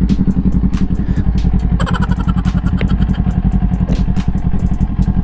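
2018 Kawasaki Ninja 400's parallel-twin engine running steadily, without revving.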